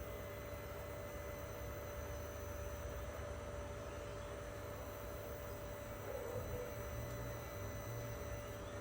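Faint steady hum over a low rumble, with no distinct events: background ambience.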